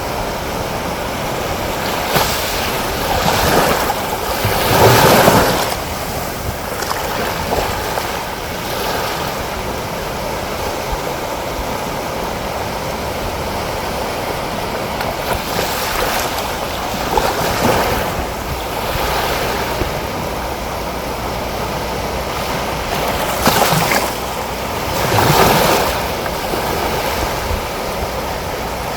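Ocean surf washing against a volcanic lava-rock shoreline: a steady rush that swells several times into louder breaking waves lasting a few seconds each.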